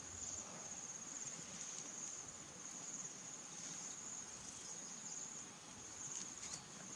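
Insects trilling in a steady, unbroken high-pitched chorus, with a few faint clicks near the end.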